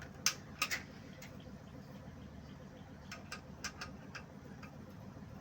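Several sharp, separate clicks and taps: two or three in the first second, then a quick run of them about three to four seconds in, over a faint low background.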